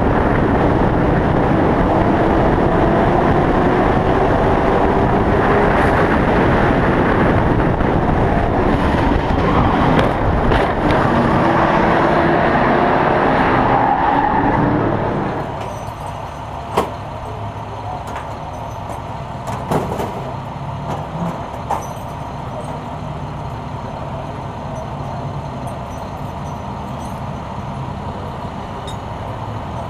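Race truck engine running hard, its pitch rising and falling as it goes through the throttle. About halfway through the sound drops to a much lower level, with a few sharp clicks.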